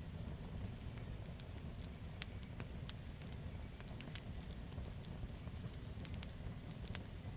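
Campfire burning, with many irregular crackles and pops over a steady low rumble.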